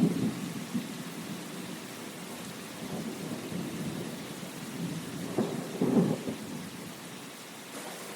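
Steady rain falling, with low rumbles of thunder right at the start and again about five to six seconds in.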